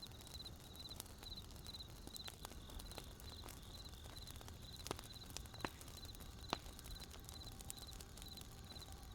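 Crickets chirping steadily, a short high chirp about two and a half times a second, each chirp a few quick pulses. Over them a wood fire crackles with scattered sharp pops; the loudest pops come about five seconds and six and a half seconds in.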